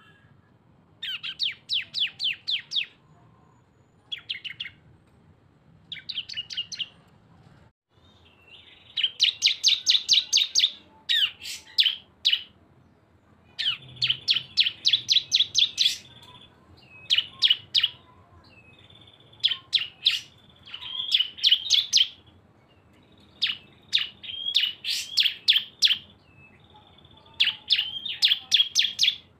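Ciblek (bar-winged prinia) song in the rapid 'bren' style, two birds combined: bursts of very fast, sharp, high chattering notes, each lasting about a second or two, repeating with short gaps.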